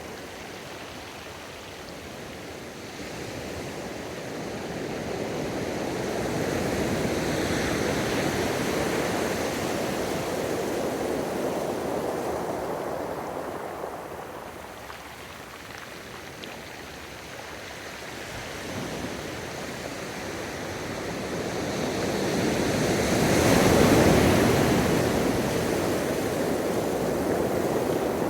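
Gentle ocean waves surging and washing up a sandy beach in two slow swells. The second swell is the louder, about two-thirds of the way through.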